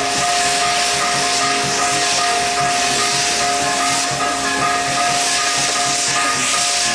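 Fireworks burning with a steady, continuous hiss and no separate bangs. Band music with a regular beat plays underneath.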